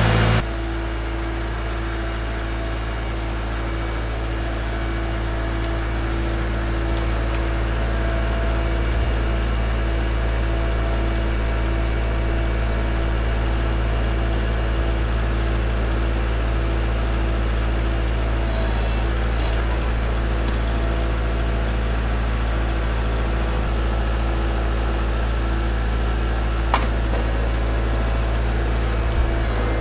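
Kubota L4701 compact tractor's four-cylinder diesel engine running steadily.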